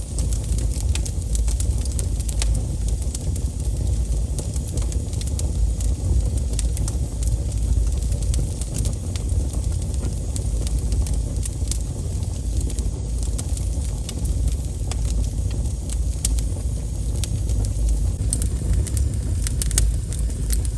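Wood fire crackling, with frequent sharp pops and snaps over a steady low rumble; the pops come thicker near the end.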